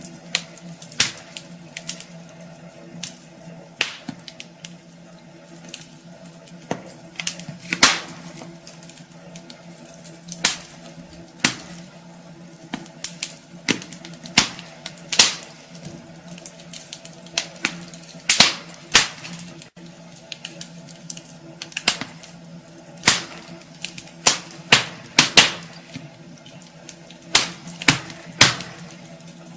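Wood fire burning in a fireplace, crackling with irregular sharp pops and snaps over a soft hiss, with a faint steady low hum underneath.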